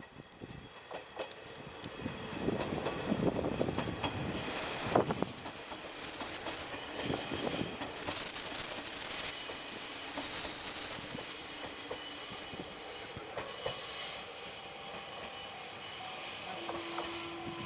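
A Sanriku Railway diesel railcar passing close by, growing louder over the first few seconds, with a high wheel squeal that comes in about four seconds in and again from about ten seconds on.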